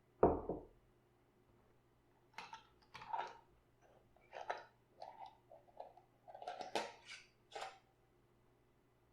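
Kitchen handling sounds during sauerkraut preparation: one dull thump at the start, then a run of short scraping and rustling noises in quick succession.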